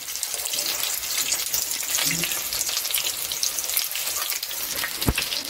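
Samosas sizzling and crackling steadily in hot oil in a frying pan, with a single light knock near the end.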